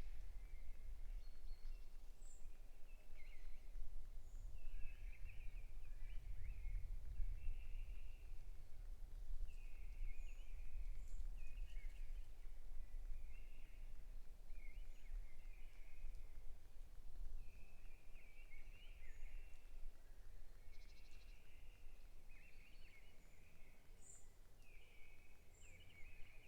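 Small birds chirping: short twittering phrases repeated about once a second, with a few thin, high single notes. Under them runs a steady low rumble.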